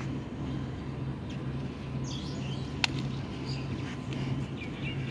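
Birds chirping in short calls over a steady, pulsing low hum, with one sharp click about three seconds in.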